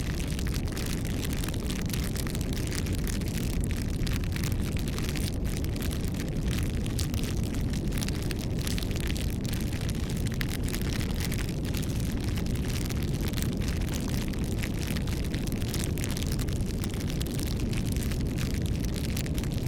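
Wood fire burning, with dense, irregular crackling and popping over a steady low rumble.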